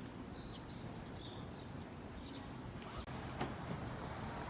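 Faint, steady background rumble with several short, high chirps during the first three seconds and a brief click a little after three seconds.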